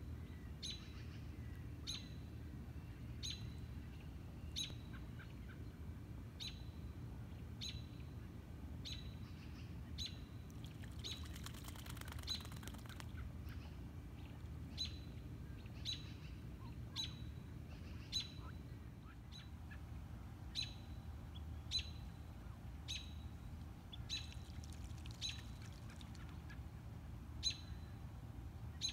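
A bird giving short, high chirps at an even pace, one a little over a second apart, over a steady low background rumble.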